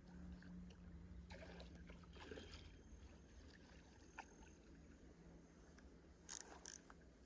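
Near silence: faint steady low background hum, with a few soft clicks and handling noises, the clearest a pair of them near the end.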